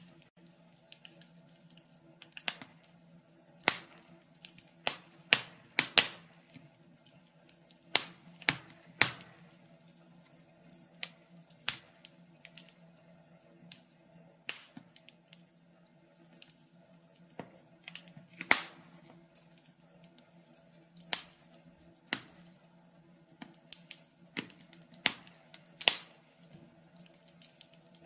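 Wood fire crackling: burning logs give off irregular sharp pops and snaps, some much louder than others, over a faint steady low hum.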